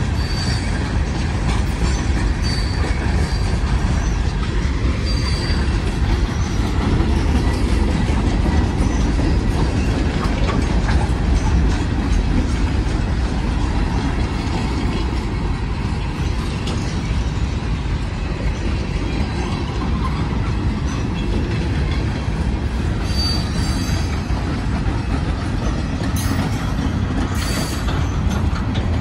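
Freight train of steel gondola cars rolling past at close range: a steady rumble of wheels on the rails, with occasional clacks and short, high wheel squeals now and then, a few of them near the end.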